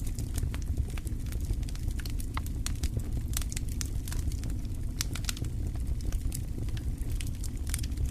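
Wood fire crackling in a fireplace: many sharp, irregular pops and snaps over a steady low rumble of the burning.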